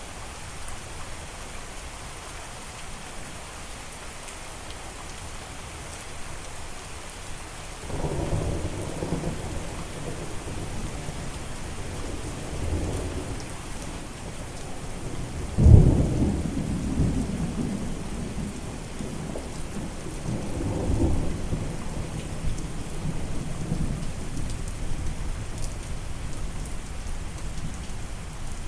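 Steady rain falling, with thunder. Rolling rumbles begin about a quarter of the way in, a sharp loud clap comes just past the middle and rolls on, and another rumble follows.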